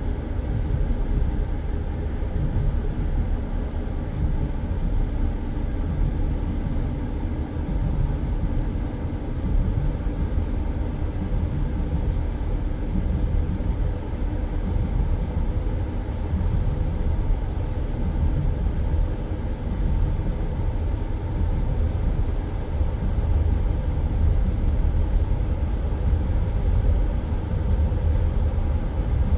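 Passenger train carriage running at speed: the steady low rumble and clatter of its wheels on the rails.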